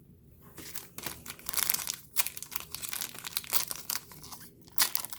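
Plastic wrapper of a trading card pack being torn open and crinkled by hand, an irregular run of crackling starting about half a second in.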